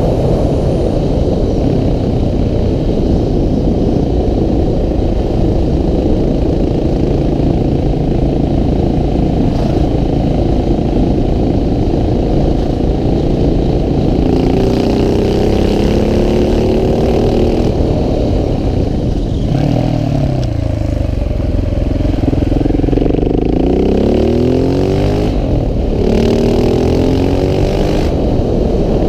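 KTM 690 SMC R supermoto's single-cylinder engine running hard, heard from on board over a heavy low rumble of wind. In the second half the engine note rises again and again as it pulls up through the gears, dips once and then climbs back up.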